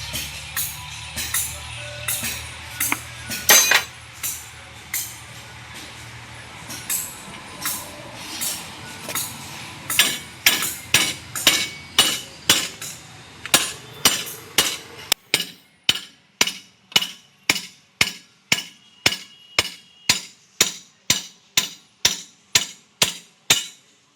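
Repeated sharp metallic strikes, like a hammer on metal, about two blows a second and very even. A low steady hum sits under them and cuts off about fifteen seconds in, while the strikes go on.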